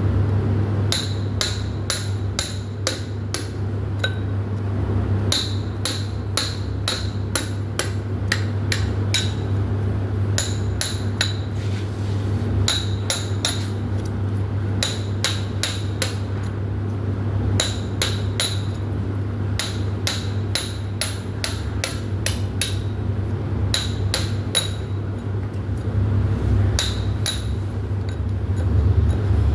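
Hammer blows struck in quick runs of several at a time, about three a second, with short pauses between runs; each blow has a bright metallic ring.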